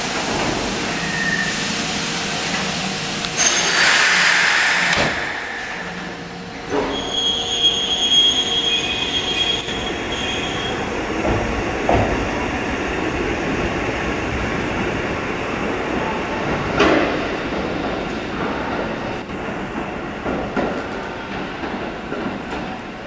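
Kotoden (Takamatsu-Kotohira Electric Railroad) electric train at a station platform. About four seconds in there is a louder clatter of the doors closing. The train then pulls away with a high, steady wheel squeal for a few seconds and the rumble and knocks of the cars over the rails.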